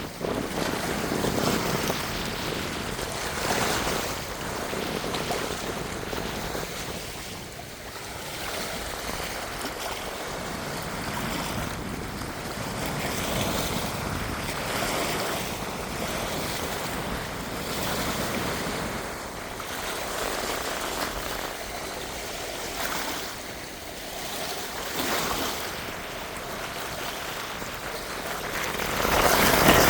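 Strong wind blowing in gusts, swelling and fading every few seconds, growing louder near the end.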